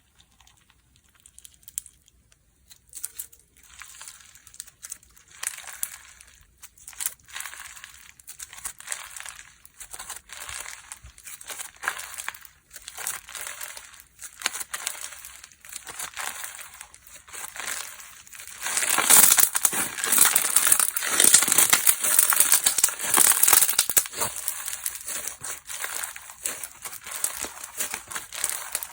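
Hands playing with slime: squeezing, pressing and stretching it, giving a dense, irregular run of small clicks and pops that gets clearly louder about two-thirds of the way through.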